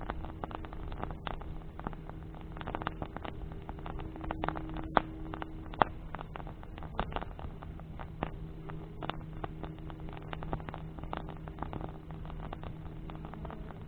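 Bonfire of burning branches crackling with frequent sharp pops, two louder ones about five and six seconds in, over a steady low hum.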